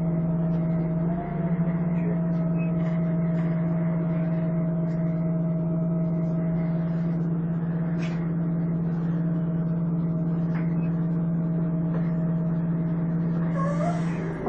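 Volvo Olympian double-decker bus running at a steady pace with its 'hoover' sound: a steady vacuum-cleaner-like whine made of a held low tone with fainter higher tones above it. The pitch nudges up briefly about a second in.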